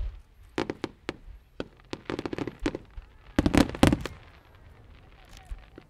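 Aerial fireworks bursting in an irregular run of sharp bangs and crackles, with a dense, loud volley about three and a half to four seconds in.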